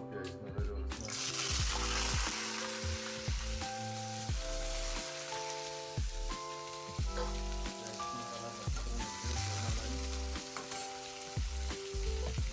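Food sizzling as it fries in hot oil in a pan, the sizzle starting suddenly about a second in and then running on steadily.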